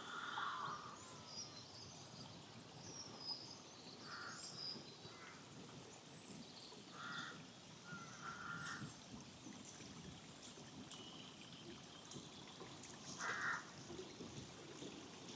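Stream running by the roadside under birdsong: small birds chirping high, and a larger bird giving several short harsh calls, the loudest about thirteen seconds in.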